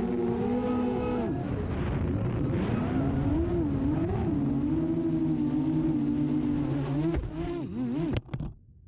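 Brushless Hyperlite 2207.5 1922KV motors of an FPV quadcopter on 6-inch props whining in flight, the pitch rising and falling with throttle. The sound drops away suddenly near the end.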